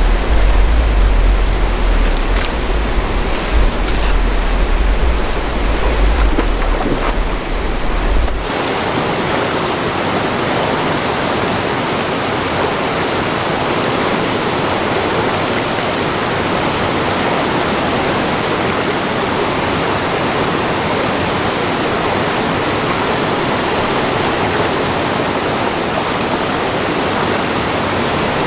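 Steady rush of a mountain stream's running water. For the first third there is also a heavy low rumble, which stops abruptly, leaving only the even water noise.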